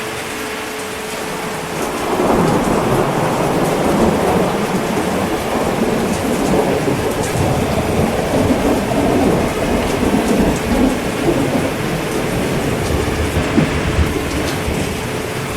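Steady heavy rain, with a long rumble of thunder that swells about two seconds in and slowly dies away near the end.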